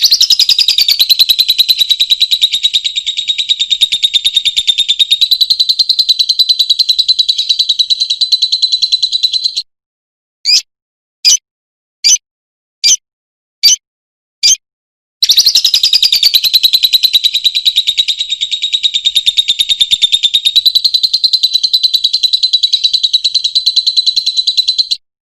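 Lovebird's long, rapid chattering trill ('ngekek'), pulsing fast and high for nearly ten seconds. It stops, six short separate chirps follow under a second apart, then a second trill of about ten seconds.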